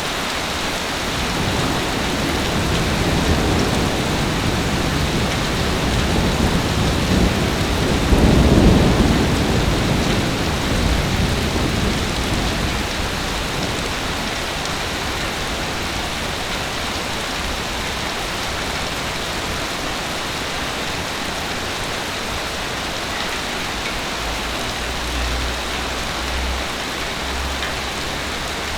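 Heavy rain falling steadily, with a long roll of thunder that builds over several seconds, peaks about eight seconds in and rumbles away a few seconds later.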